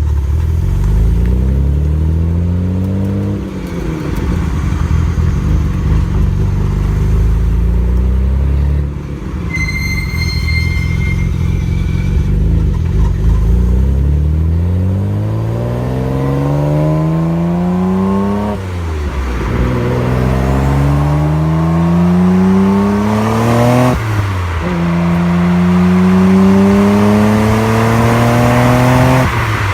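Exhaust of a Nissan Skyline GT-R R33's RB26DETT twin-turbo straight-six through an aftermarket muffler, on the move. Revs dip and rise, hold steady with a brief high whistle about ten seconds in, then climb hard through the gears, with upshifts about halfway, about two-thirds in and near the end.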